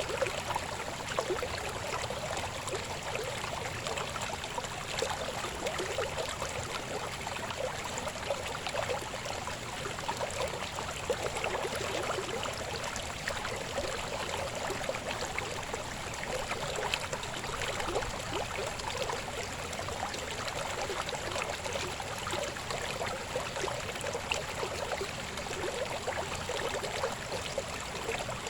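River water babbling steadily, a continuous rush of small splashes and trickles.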